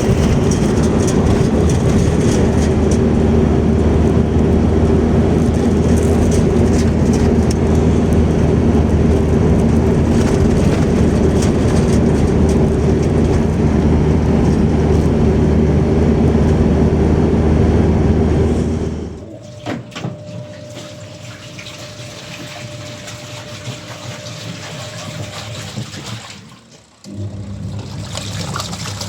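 Tractor engine running steadily and loud, then dropping away suddenly about two-thirds of the way through, leaving quieter noise.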